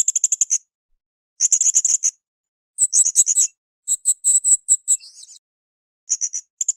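Blue-crowned hanging parrot (srindit) calling: rapid trains of very high, shrill chirps, each lasting about half a second to a second, repeated six times with brief silences between.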